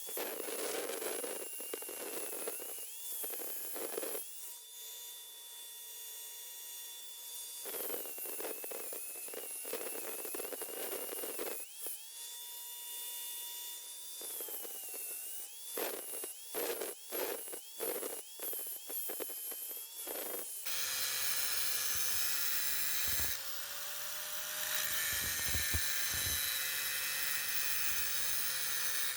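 High-speed grinder whining in repeated spurts, speeding up and coasting down, with gritty grinding noise when it bites into the metal fender struts. About two-thirds of the way through it gives way to a lower-pitched, steadier tool whine with a low hum under it.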